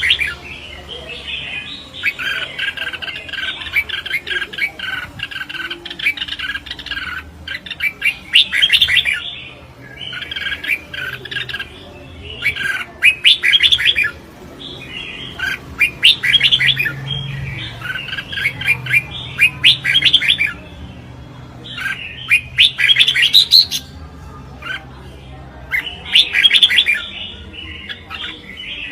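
Red-whiskered bulbuls singing a duel of song against each other: loud bursts of quick, chirpy warbled notes, one phrase every second or two with short pauses between.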